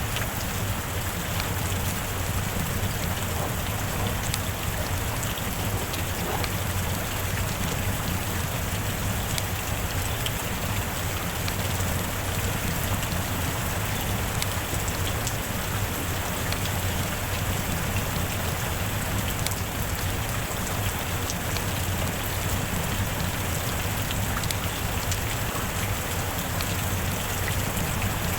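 Heavy rain falling steadily, with many single drops ticking sharply on a surface through the constant hiss.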